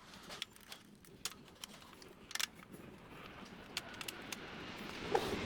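Scattered light clicks and taps of plastic and metal printer parts being handled and fitted during reassembly, with a faint rising hiss near the end.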